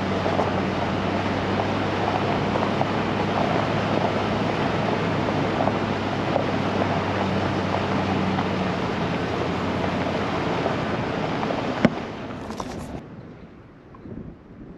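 Full-size pickup truck's engine running steadily as it climbs a rough forest road, heard from inside the cab with crackling road noise. About twelve seconds in there is a sharp click and the noise drops away abruptly.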